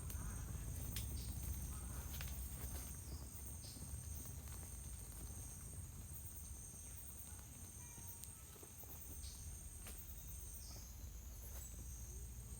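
Insects trilling steadily in two high, unbroken tones over a low rumble, with a few faint clicks.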